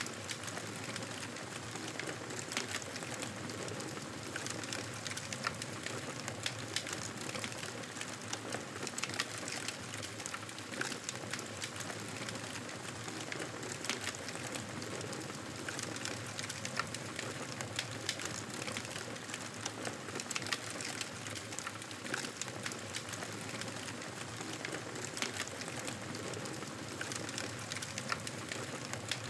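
Campfire crackling: a steady hiss with frequent small pops and snaps scattered throughout.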